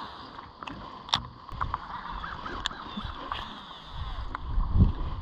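Handling noise from angling in a small jon boat: a few sharp, separate clicks and knocks over a steady background noise. A louder low rumble swells near the end.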